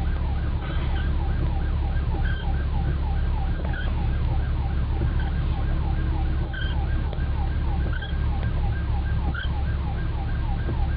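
Emergency-vehicle siren on a fast yelp, about four falling whoops a second, over the steady low rumble of a car cabin on the road.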